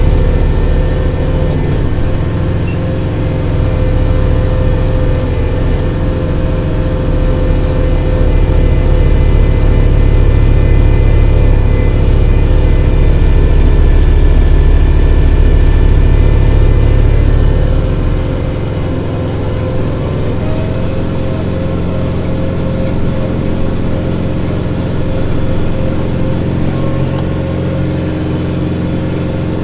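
Kubota Grand L5740 tractor's diesel engine running steadily at PTO speed, driving a rear-mounted snow blower, heard from inside the cab. About eighteen seconds in, the deep low rumble drops away and the sound gets a little quieter.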